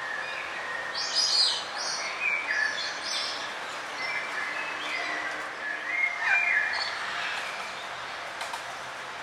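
Wild birds chirping and trilling in short, high calls, with the busiest bursts about a second in and again around six seconds, over a steady background hiss.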